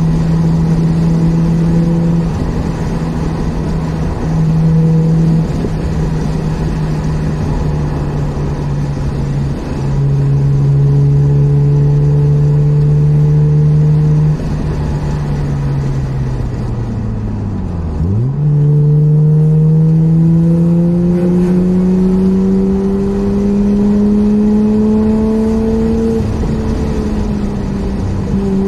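Mazda RX-8's twin-rotor rotary engine heard from inside the cabin, holding a steady note, then falling in pitch as the car slows a little past halfway. It then climbs steadily under acceleration, with a short dip near the end at a gear change.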